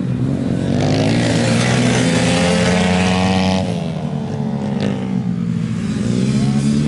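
Motorcycle engine revving up, its pitch rising for about three seconds, then falling as it backs off. A steady low engine drone runs underneath.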